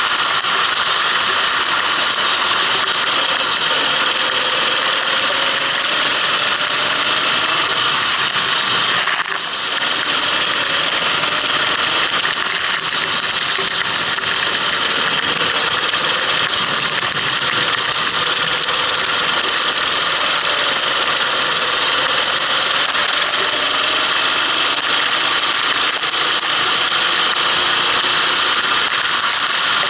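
Kart engine running on track, recorded onboard, its pitch slowly rising and falling as it accelerates and backs off, under a steady hiss. The sound drops briefly about nine seconds in.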